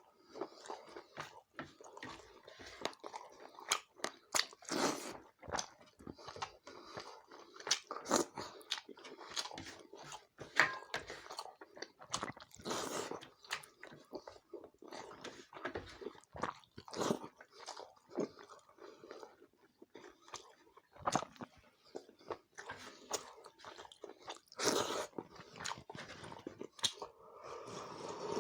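A person eating at the microphone: close-up chewing and mouth smacks of rice, roti and dry chicken curry with gravy, irregular wet clicks and bites throughout.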